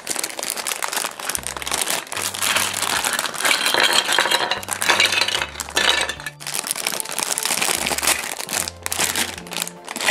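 Plastic packaging crinkling and rustling, with small plastic toy pieces clinking, over background music with a low bass line.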